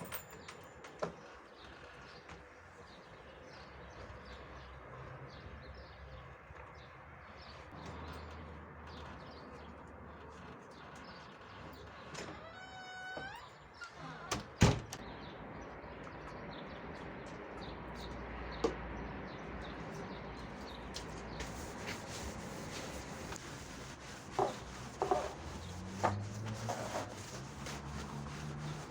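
Household cleaning sounds: scattered knocks and handling clatter with a few short squeaks, and one sharp knock about halfway through.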